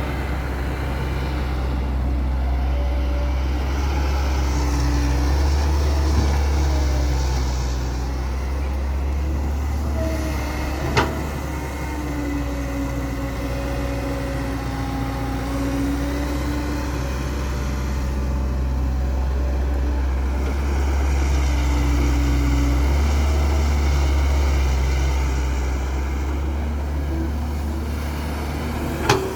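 Cat E120B excavator's diesel engine working under load, rising and easing in repeated cycles as it digs and swings. A sharp metallic knock comes about a third of the way in and another near the end.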